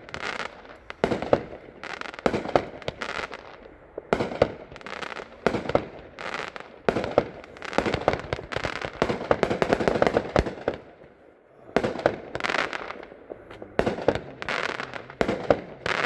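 Black Hat 'Gunfighters from Hell' 49-shot firework cake firing, a rapid string of sharp launches and bursts several per second, with a brief lull about eleven seconds in before the shots resume.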